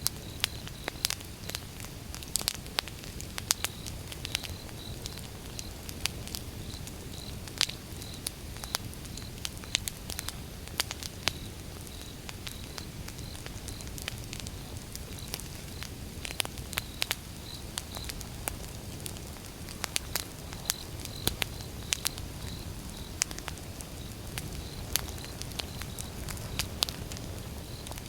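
Wood fire burning: irregular sharp crackles and pops over a low steady rumble and hiss. A faint high chirp repeats about twice a second behind it.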